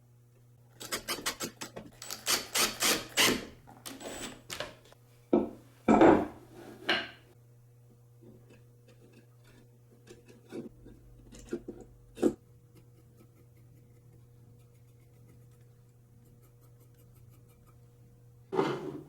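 Hand work on wood: a run of quick rasping or sanding strokes, about four a second, then a few louder scrapes and knocks and scattered light clicks, over a steady low hum.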